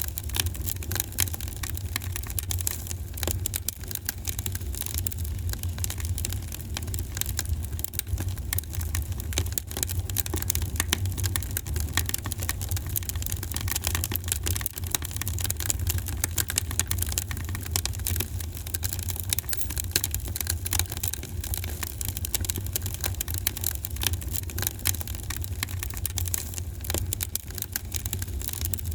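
Fire burning in a fireplace, with dense, continuous crackling and popping over a steady low rumble.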